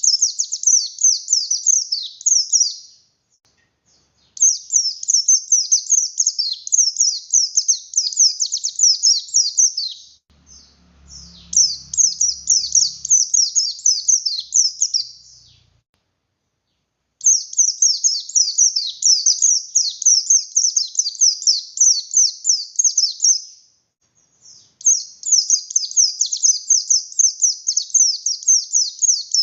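A white-eye ('pleci buxtoni') singing in long, rapid, high-pitched bursts of quick descending notes, five bouts separated by short pauses.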